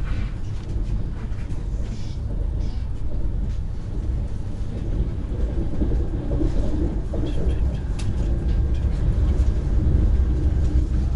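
Lastochka (ES1P) electric train running, heard from inside the carriage: a steady low rumble of wheels and running gear on the track.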